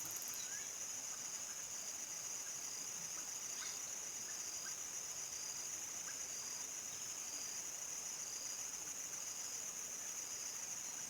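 Steady high-pitched chorus of crickets trilling without a break, with a few faint short chirps lower down.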